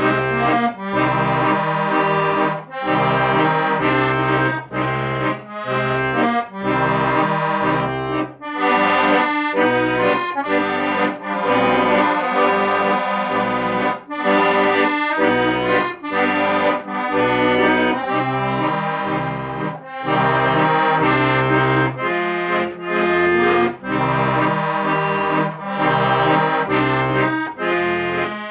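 Accordion playing a melody over a pulsing bass-and-chord accompaniment, in phrases with short breaks between them.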